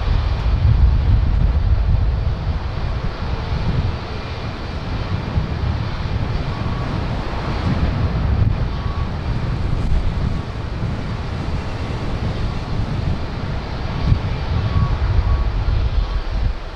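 Boeing 787-9 Dreamliner with Rolls-Royce Trent 1000 engines, its jet engine noise running under heavy wind buffeting on the microphone; the low, gusty wind rumble is the loudest thing heard.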